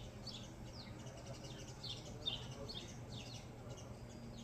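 Songbirds chirping: a series of short falling chirps, about two a second, that stop shortly before the end, over a steady low hum.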